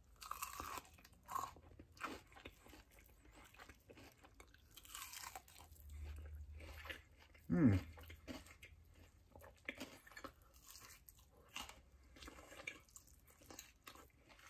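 Biting into and chewing a crispy air-fried chicken wing coated in buffalo sauce and ranch: quiet, irregular crunches of the crisp skin between the teeth. About halfway through comes a short hum that falls in pitch, the loudest moment.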